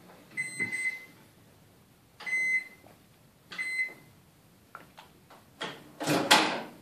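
Microwave oven control panel beeping as its buttons are pressed: a quick run of short beeps, then two single beeps about a second apart. Some handling clatter follows near the end.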